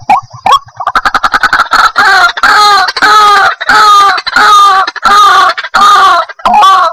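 White-breasted waterhen calling: a rapid run of clicking notes that builds into a long series of loud, harsh repeated 'kru-ak' calls, about two a second.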